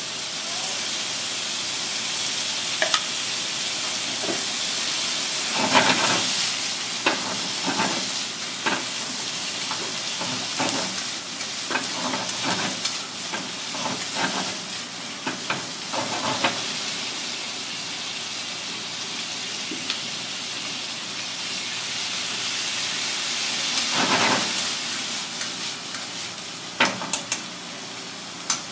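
Fish pieces and vegetables sizzling in a small black wok over a gas flame, with chopsticks clicking against the pan as they are stirred through a green sauce. The clicking comes in a busy spell through the middle and again briefly near the end.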